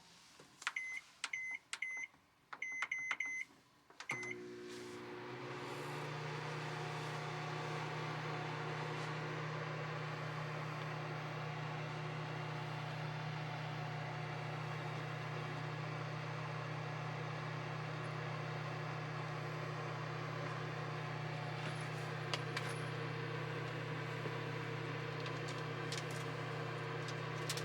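A series of short high electronic beeps, like buttons pressed on an appliance panel. About four seconds in, the appliance starts and runs with a steady hum and fan noise.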